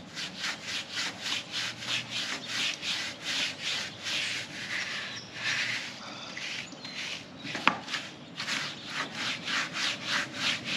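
Stiff bristle brush scrubbing a motorcycle's bare aluminium wheel wet with wheel cleaner, in quick back-and-forth strokes about three a second. The strokes pause briefly about two-thirds of the way through, broken by one sharp click, then start again.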